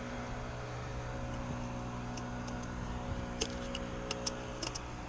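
Steady low mechanical hum with a few small, sharp clicks between about three and a half and four and a half seconds in.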